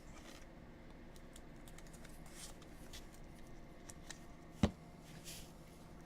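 Quiet handling sounds at a tabletop: soft rustles and scattered light clicks, with one sharp click a little past halfway.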